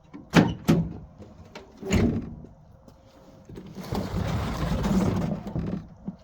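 Two sharp clacks in quick succession, a thump, then about two seconds of scraping and rustling: handling noises.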